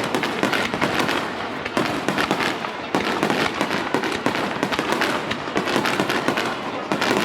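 Fireworks going off: a dense, continuous crackle of many rapid pops.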